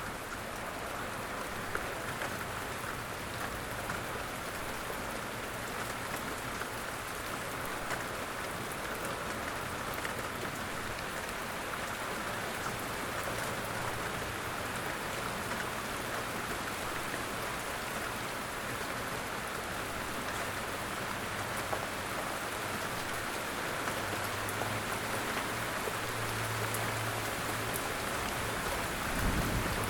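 Steady light rain: a dense, even hiss with scattered ticks of individual drops. A faint low hum comes in during the second half, and a single low thump sounds near the end.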